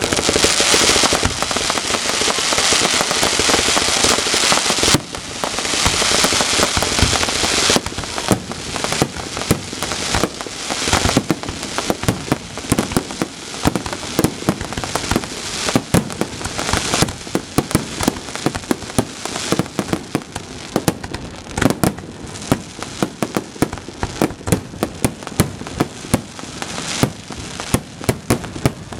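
Fireworks display: for the first several seconds a dense crackling hiss, briefly dipping about five seconds in, then a long run of rapid, irregular sharp pops and bangs.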